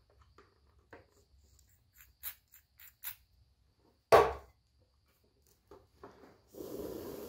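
Hard plastic parts being handled on a workbench: a few light clicks and taps, one sharp knock about four seconds in, then a brief rustling hiss near the end.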